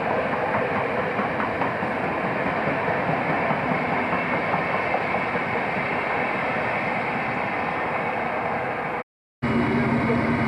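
Train running, a steady noise with no distinct rhythm. About nine seconds in the sound breaks off for a moment and resumes as a steadier engine hum with low tones.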